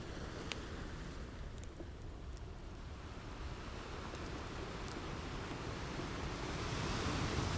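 Ocean surf washing in a steady rush that swells louder near the end as a wave builds, with a few sharp crackles from a wood fire in the first couple of seconds.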